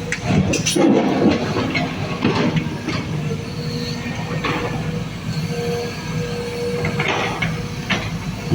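Sumitomo SH210 hydraulic excavator running: a steady low diesel drone with scattered knocks, and a steady higher whine held from about three seconds in until near the end.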